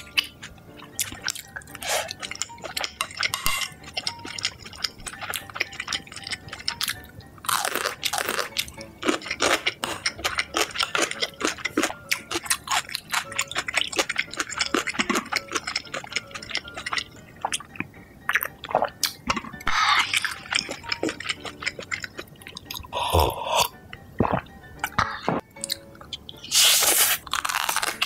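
Close-up eating sounds: a person chewing and crunching food, a rapid run of small crisp clicks and crunches, with a few longer wet, noisy sounds in between.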